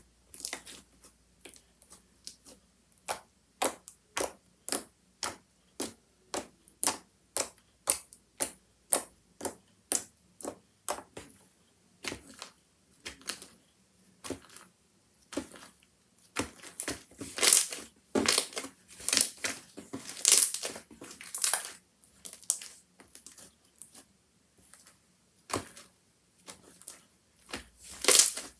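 Handmade slime being pressed and squished by hand, giving a run of short crackling pops about two a second, then denser, louder bursts of crackling in the second half.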